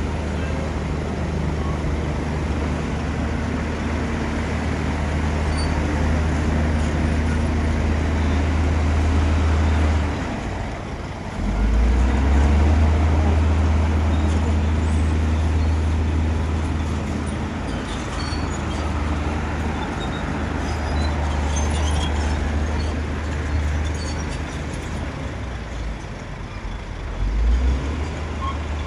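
Bulldozer's diesel engine running under load, a loud, steady low drone that eases off about ten seconds in and picks up again a second or so later, with another brief change near the end.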